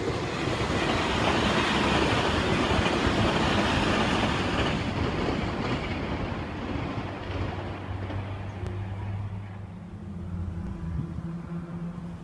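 Meitetsu express train passing at speed through the station: a loud rush of wheel and running noise that dies away over about five seconds, leaving a low steady hum.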